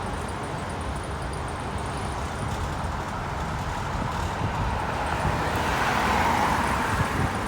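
Road traffic at the roadside: a steady low rumble of engines, with a vehicle's tyre and engine noise building and passing by, loudest about six seconds in.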